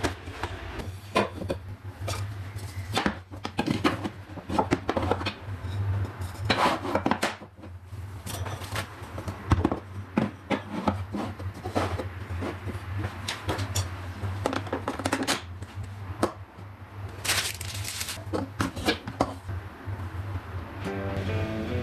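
Kitchen utensils and cutlery being handled and set down, an irregular run of clicks, clatters and knocks over a steady low hum. Music comes in near the end.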